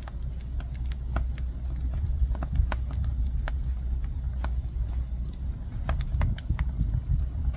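Jujube-wood fire crackling: irregular sharp pops and snaps, several a second, over a low steady rumble.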